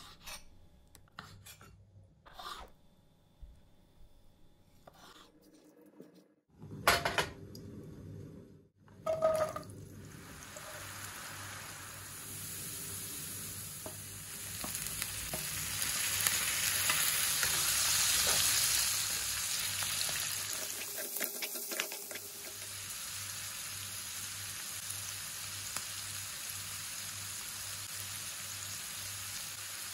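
A knife tapping through raw chicken hearts on a wooden cutting board, a few separate taps, then two loud knocks. From about ten seconds in, diced potatoes, and later chicken hearts and onion, fry in hot oil in a pan with a steady sizzle as they are stirred. The sizzle is loudest in the middle and briefly drops out about two-thirds of the way through.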